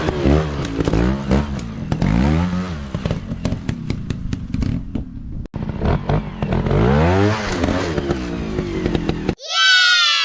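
Dirt bike engines revving up and down over and over, with rattling and clatter. About nine seconds in the engine sound cuts off abruptly and a loud falling tone takes its place, trailing away.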